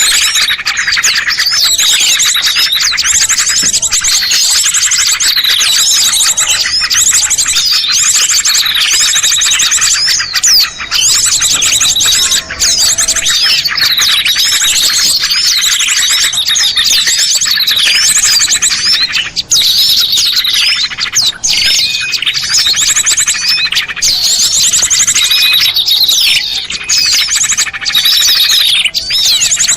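Dense chorus of many small songbirds chirping and trilling at once, loud and without pause, with fast high trills and sweeping notes overlapping. It is a bird-luring (pikat) recording meant to draw small wild birds down.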